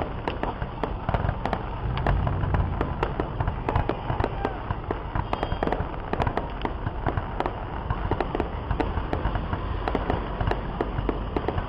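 Fireworks display heard from a distance: a dense, irregular barrage of pops and crackles over a low rumble of booms, the booms heavier about two seconds in.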